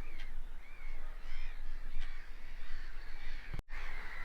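Wild birds on a lake calling: many short, repeated calls, each rising and falling, overlapping one another. The sound cuts out for an instant about three and a half seconds in.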